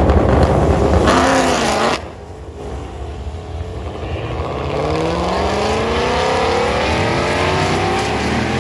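2020 Shelby GT500's supercharged 5.2-litre V8 launching hard, then the engine note drops off suddenly about two seconds in as the car cuts all power. This is the transmission's clutch over-torque limiter tripping at the line. The engine then pulls back up with a long, slowly rising note.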